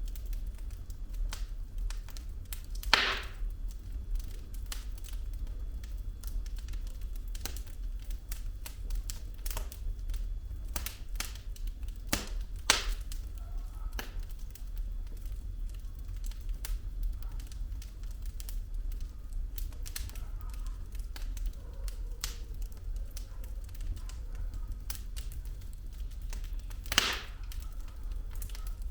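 Wood fire burning in a fireplace: logs crackling with irregular small clicks over a low steady rumble of the flames, and a few louder pops, about three seconds in, near the middle and near the end.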